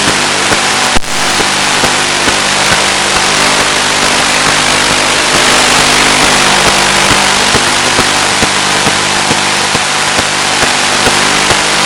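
Electric motor and propeller of a Finwing Penguin FPV plane running steadily in flight, a low drone under a loud even hiss, with scattered small clicks and one sharper crackle about a second in.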